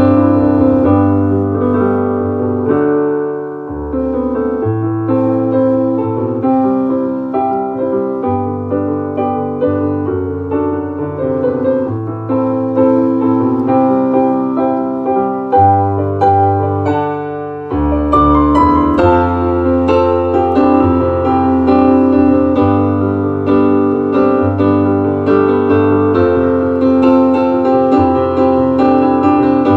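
Solo piano playing an instrumental ballad: held bass notes under slow chords and a melody line. Just before the middle it briefly thins out, then returns fuller and brighter.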